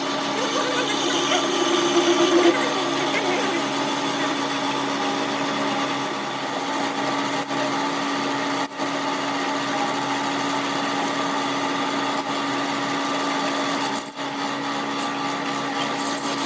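A workshop machine or power tool running steadily with a constant hum, its pitch unchanging, with a few brief interruptions.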